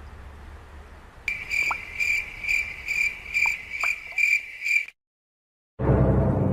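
Cricket chirps in an even high pulse, about two a second, over a faint low rumble, starting and stopping abruptly. After a moment's silence, loud dramatic music starts near the end.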